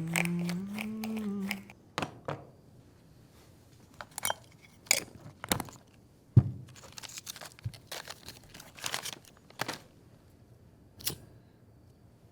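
A person's voice holding a short note that bends up and back down for about a second and a half, then a run of scattered sharp clicks, taps and knocks, the loudest a single knock a little past the middle.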